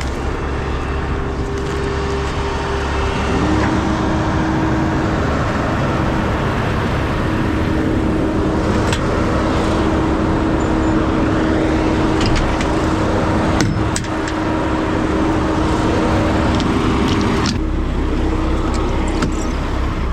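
Semi truck's diesel engine running under load as the tractor-trailer is manoeuvred. The engine note steps up and grows louder about three seconds in, then eases off near the end.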